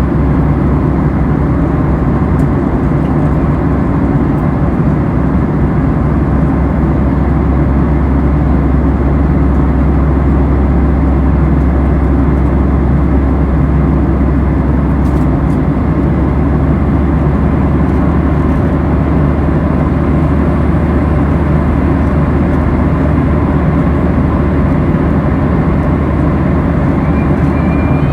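Steady airliner cabin noise in flight: jet engine and airflow noise heard from inside the cabin, heaviest in the low end and unchanging throughout.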